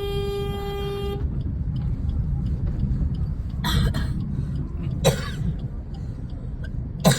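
Car horn sounded in one steady honk lasting about a second and a half, to clear the way in traffic. After it comes a steady low rumble of the car moving in traffic, with a few short noises later on.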